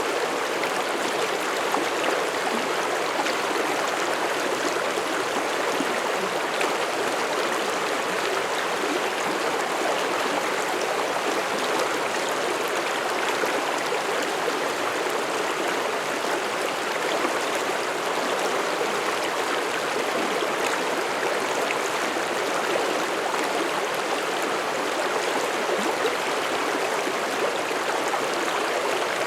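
Mountain stream flowing over rocks: a steady, even rush and babble of water.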